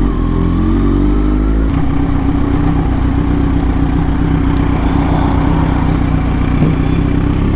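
Kawasaki Z900's inline-four engine running steadily while the bike is ridden, with a constant rush of noise behind the engine note.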